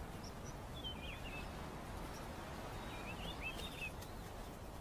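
Faint bird chirps in two small clusters of quick, high notes, about a second in and again just past three seconds, over a steady low background noise of open-air ambience.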